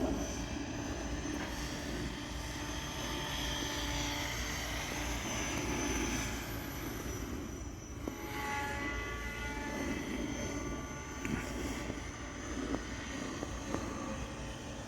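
SAB Raw 700 Piuma electric model helicopter in flight: the rotor and motor make a continuous whine whose pitch shifts up and down as it manoeuvres.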